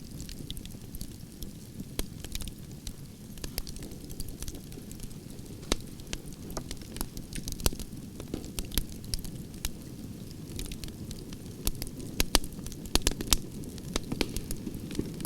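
Wood fire burning: a steady low rumble of flames with irregular sharp crackles and pops from the burning logs, coming more often near the end.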